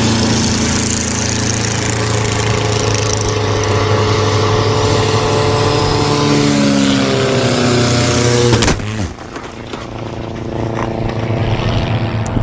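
Loud aircraft engine running with a steady hum and a wide rush of noise, some of its tones sliding in pitch partway through. It cuts off abruptly about nine seconds in, and a quieter engine sound follows.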